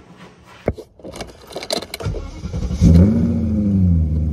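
A car engine being started from inside the cabin on a cold start. A few knocks and clicks come first, then about a second of cranking; the engine catches just before three seconds in, revs up briefly and drops back to a steady idle.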